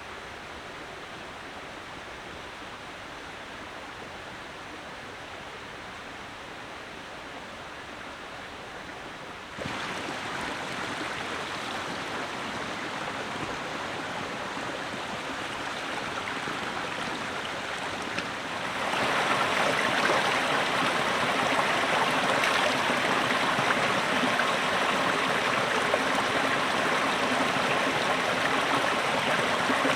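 Steady rushing of flowing water, jumping abruptly louder about ten seconds in and again near nineteen seconds.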